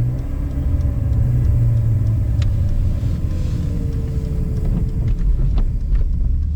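BMW E46 inline-six engine and K&N cone intake running at low revs while driving, a steady deep drone whose pitch eases slowly down as the car slows or coasts. A few light clicks sound over it.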